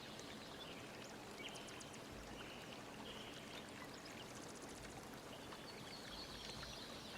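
Faint, steady rush of flowing water, with a few faint, short bird chirps over it.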